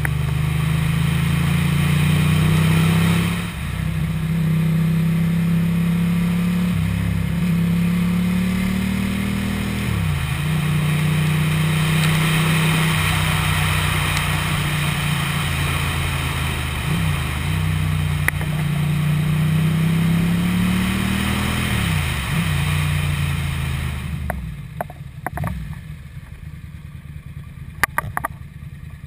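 Motorcycle engine running under way, its pitch climbing slowly in each gear and dropping sharply at each of about four upshifts, with wind rushing past. Near the end the engine note falls away as the bike slows, and a few clicks follow.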